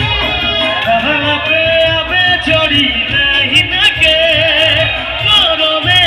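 Amplified live stage music: a vocalist singing a melody over a band, with a steady drum beat in the low end.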